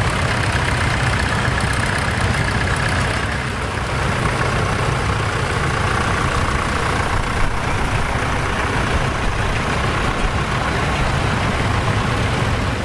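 Vintage tractor engines running steadily at low revs, a continuous low rumble with no sharp events.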